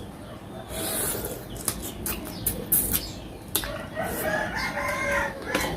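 A rooster crowing, one long call starting about three and a half seconds in, over short sharp clicks and smacks of close-up eating.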